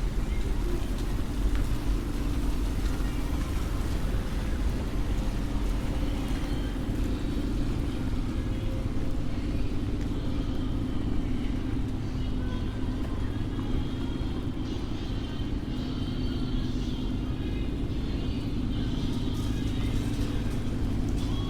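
City street traffic: a steady rumble of passing vehicles with a held engine drone.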